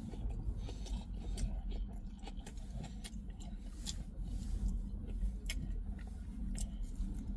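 Someone eating a kebab close to the microphone: irregular small clicks and crackles of chewing and handling the food, over a steady low hum.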